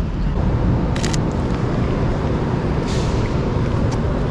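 Traffic on a wet city street: a steady low rumble of passing vehicles, with a brief tyre hiss about three seconds in and a few sharp clicks about a second in.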